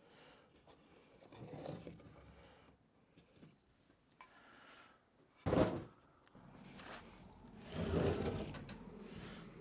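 Pieces of wood being handled and slid against each other: scraping and rubbing, with one sharp knock about halfway through and a longer sliding scrape near the end.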